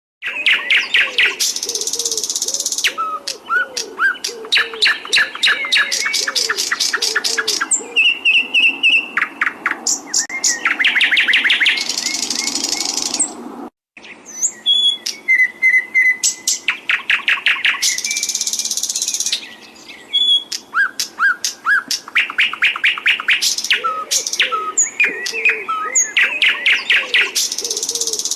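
Songbird song: dense runs of rapid trills and high chirps, with lower swooping notes beneath. The sound cuts out for a moment about halfway through.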